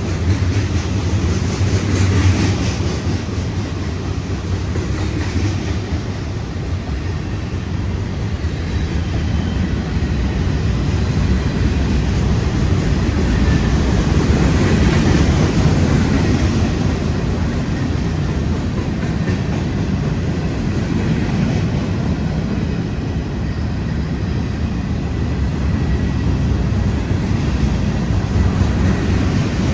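A Union Pacific manifest freight train rolling past on the rails: a loud, steady noise of wheels on track that swells a little about halfway through.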